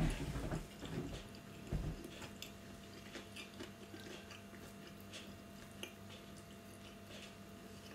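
A person chewing a mouthful of crunchy raw cucumber: small crackly crunches and wet clicks, with a couple of heavier low thumps in the first two seconds.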